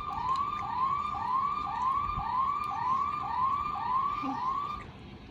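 Electronic police-siren sound from the Tomica Patrol Car playset's speaker, set off by pressing its big button: a short rising whoop repeated about twice a second, stopping shortly before the end.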